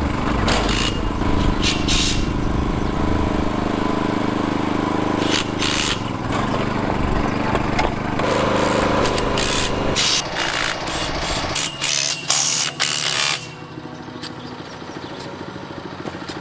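Makita TD001 40V cordless impact driver hammering as it runs bolts down, a fast rattle of impacts with brief breaks; it stops about thirteen seconds in.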